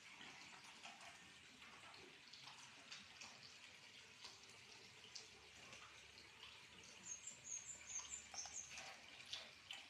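Faint water trickling and dripping in a fish pond, with small splashy clicks throughout. About seven seconds in, a small bird chirps a quick run of high notes.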